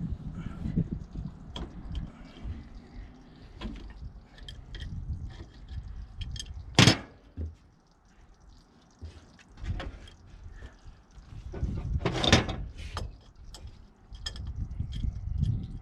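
Intermittent metal clinks and knocks of tools being handled on a machine, with one sharp loud clank about seven seconds in and a rougher clatter around twelve seconds, over a low rumble.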